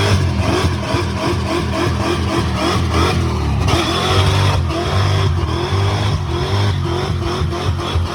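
Muscle car V8 engine idling with a rhythmic lope, about three pulses a second.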